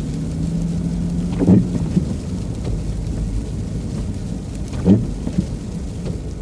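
Steady low rumble of a truck driving through freezing rain, heard from inside the cab, with the windshield wipers thumping across the glass twice, about three and a half seconds apart.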